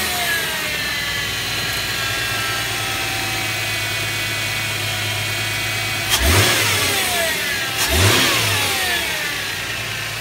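Subaru Legacy 3.0 flat-six boxer engine just after a start, its revs falling back to idle over the first second or two. It is revved briefly twice, about six and eight seconds in, dropping back each time to a steady idle.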